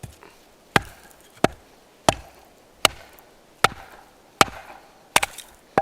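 Wooden sticks being chopped and split into finger-thick kindling with a bladed tool: a steady series of sharp strikes, a little under one and a half a second.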